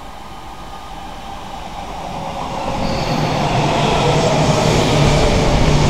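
Odakyu Electric Railway commuter train approaching and running past close by. Its rumble grows steadily louder through the first half and stays loud as the cars go by.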